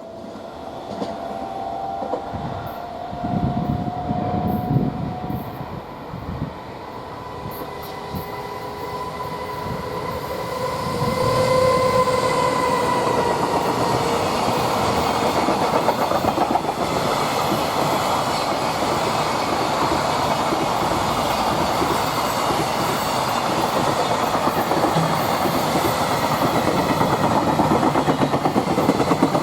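JR Freight EF210 electric locomotive passing, its traction motors giving a whine that shifts in pitch, with heavy wheel clacks over rail joints. From about ten seconds in, a steady loud rumble and clickety-clack of a long string of freight wagons rolling by.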